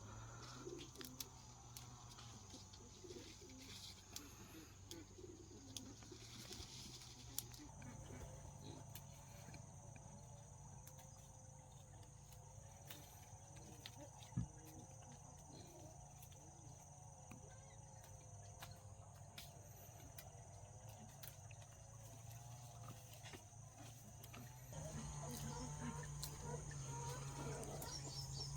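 Faint outdoor background: a steady high-pitched insect drone over a low hum, with scattered light clicks and one sharper knock about halfway through. It grows louder near the end.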